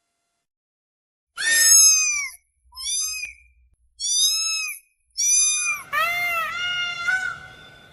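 A series of short, high-pitched animal cries, each rising and then falling in pitch: four separate calls, then several overlapping calls from about six seconds in.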